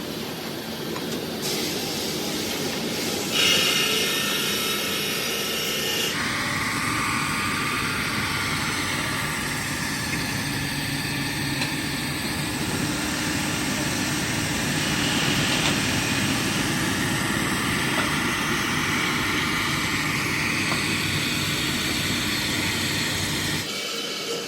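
Heavy machinery running with a steady mechanical din. The sound changes suddenly about a second and a half in, again at about three and a half and six seconds, and once more near the end.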